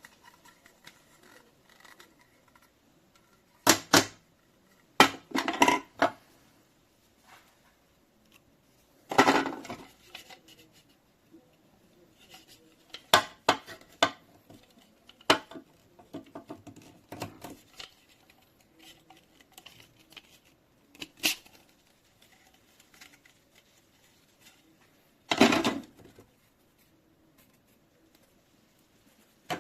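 Hard objects being handled: scattered clicks, knocks and short rattles, some single and some in quick clusters, with quiet gaps between them. No motor is running.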